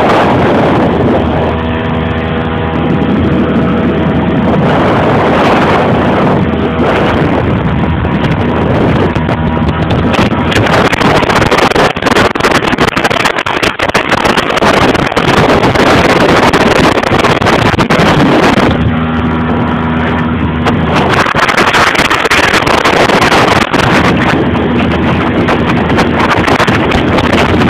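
Motorboat engine running at speed, its tone coming and going under heavy rushing wind on the microphone and water noise, with crackling buffets in the middle stretch.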